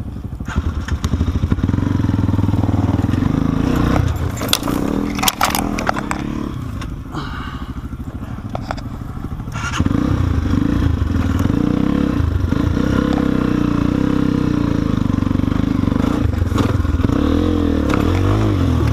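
Dirt bike engine working under load on a rough rocky trail, the throttle opening and closing, with clicks and clatter of rocks striking the bike. It eases off about six seconds in and pulls hard again about ten seconds in.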